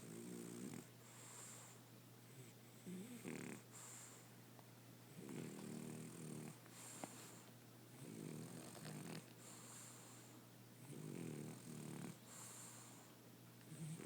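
French bulldog snoring in its sleep: a low, rattling snore on each breath in, about every two and a half to three seconds, each followed by a short hissing breath out. The dog was due for surgery on its nose, and this kind of snoring is typical of a flat-faced breed's narrow nostrils and airway.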